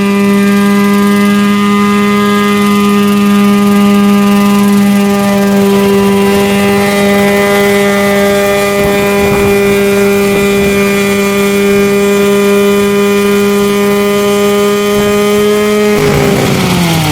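Homemade coaxial helicopter running at a steady speed with a loud, even drone; near the end its pitch falls as it slows down.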